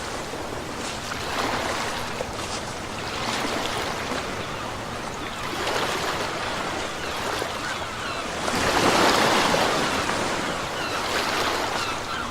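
Ocean waves breaking and washing on a shore, the surf swelling and fading every two to three seconds, with the biggest wash about nine seconds in.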